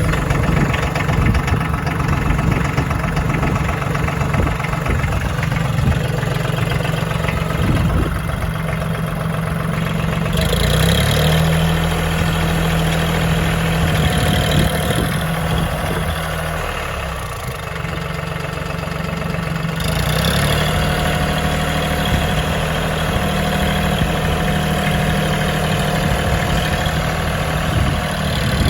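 Tractor engine running steadily at idle just after starting. Its note shifts about ten seconds in and shifts back about twenty seconds in.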